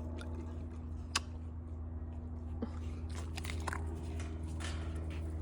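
Dogs eating their food, with chewing and crunching heard as scattered short clicks, more of them past the middle. A steady low hum runs underneath.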